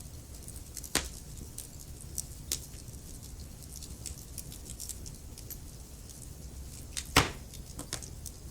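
Wood fire crackling in a fireplace: frequent small, sharp crackles over a low steady rumble, with two louder pops, one about a second in and one near the end.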